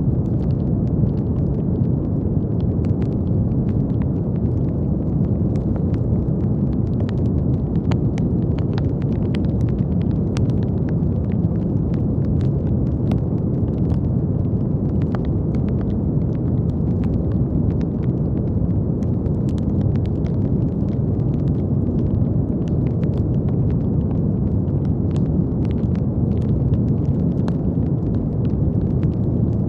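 Continuous brown noise: a steady, deep rushing hiss weighted toward the low end, unchanging in level, with faint scattered crackling clicks throughout.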